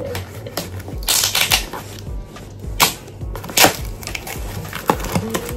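Packaging being handled and opened by hand: rustling with several sharp crackling snaps, the loudest a little under three and under four seconds in, over background music with a steady beat.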